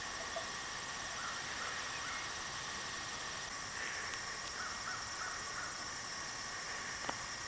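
Outdoor ambience with a steady hiss, and faint short bird calls in two small groups, a little over a second in and again about five seconds in. There is a small tick about seven seconds in.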